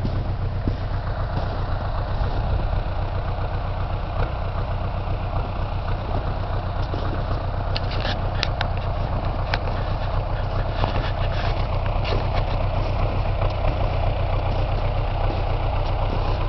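Tractor engine idling steadily, with a few light clicks about halfway through.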